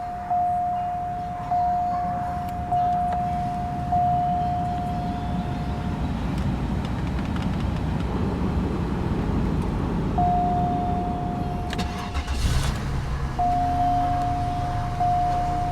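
2003 Cadillac DeVille's 4.6-litre Northstar V8 cranking for several seconds, then catching about twelve seconds in with a short flare and settling into idle. A steady repeating warning chime sounds before the crank and returns once the engine is running.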